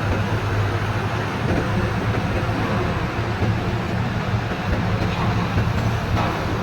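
Heavy diesel truck traffic: a steady low engine drone with road noise, no change in pitch.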